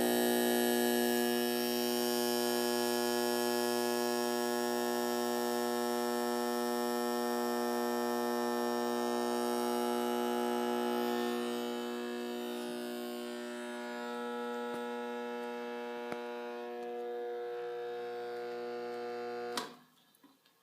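Failing compressor of a GE window air conditioner running with a steady electrical hum; the owner says the compressor is eating itself. The hum fades somewhat partway through, then a click near the end and it cuts off suddenly.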